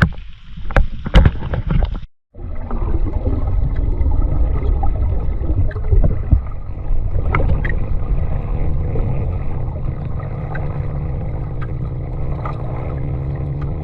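A few sharp knocks, then after a short break a boat engine running with a steady low hum and rumble.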